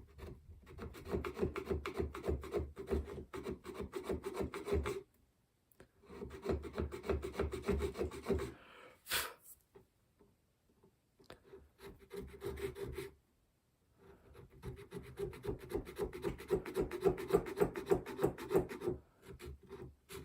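A homemade checkering tool, a reshaped flat-bladed screwdriver, scraping back and forth in the chequering lines of a wooden gunstock. It goes in several runs of quick rasping strokes with short pauses between, and there is a single sharp click about nine seconds in.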